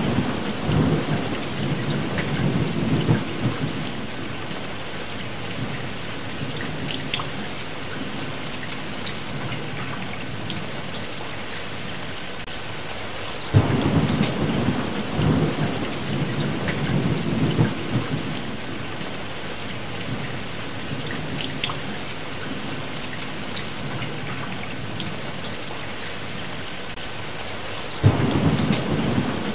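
Steady rain with rolls of thunder. One roll fades over the first few seconds, another breaks sharply about halfway through, and a third starts near the end.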